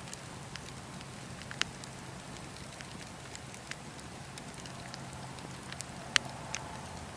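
Wood fire burning, crackling over a steady hiss, with scattered sharp pops; the loudest comes about six seconds in.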